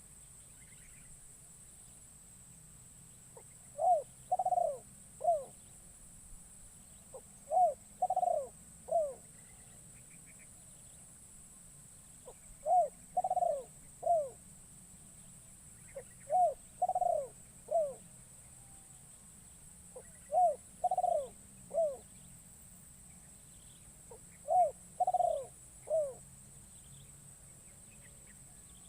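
Spotted dove (terkukur) cooing as a decoy calling to wild doves: six short phrases of about three falling coo notes each, one phrase roughly every four seconds, with a steady high-pitched drone underneath.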